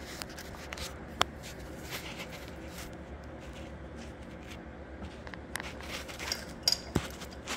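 Scattered light clicks and handling knocks of small metal parts being moved, over a steady low hum.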